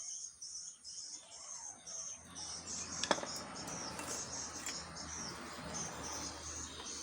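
Insects chirping in a steady pulsing rhythm, about two to three high pulses a second. A broad low rumble of noise swells in from about two seconds in, with one sharp click near three seconds.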